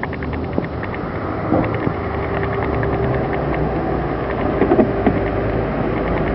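Steady low vehicle rumble with a constant hum, and a rapid light ticking during the first two to three seconds.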